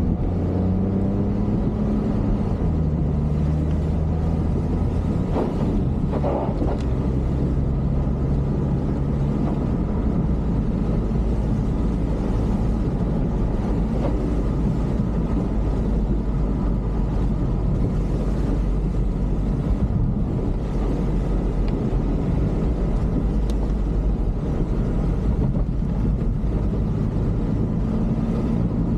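A motor vehicle driving along, with steady engine and road rumble. The engine note shifts up and down in pitch during the first several seconds, then settles.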